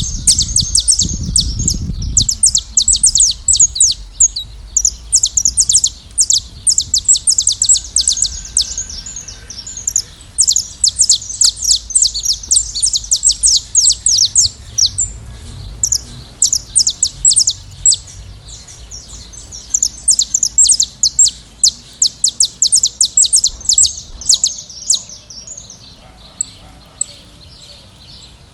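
A flock of saffron finches chirping and singing together, a dense run of short, high, overlapping chirps that thins out near the end.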